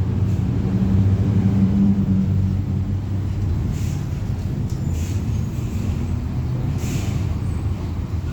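Mercedes-Benz OF-1721 bus diesel engine running, heard from inside the bus, a little louder in the first two seconds. Three short hisses of air, from about halfway through, are typical of the bus's air brakes.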